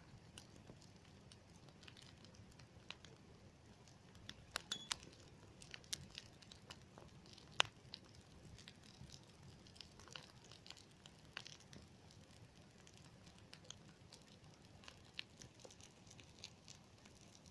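Wood campfire crackling faintly, with scattered sharp pops at irregular intervals: a quick cluster about five seconds in and one louder pop a couple of seconds later.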